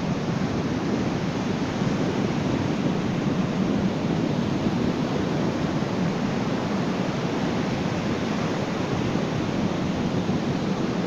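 Ocean waves on a beach, a continuous even wash of surf with no single wave standing out.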